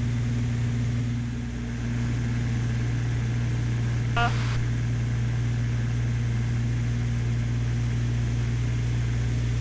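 Steady cabin drone of a Beechcraft Baron B55's twin six-cylinder piston engines and propellers in level cruise, propellers set to 2400 RPM. A short, sharp blip comes about four seconds in.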